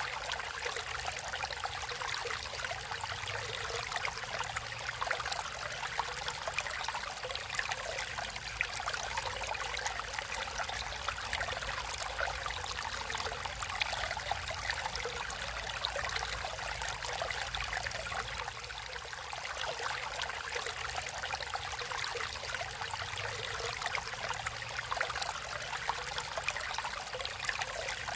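Stream water flowing and trickling in a steady, even babble.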